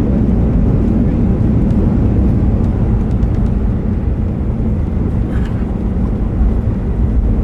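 Steady, loud rumble of a Boeing 737-800's jet engines and airflow, heard from inside the passenger cabin.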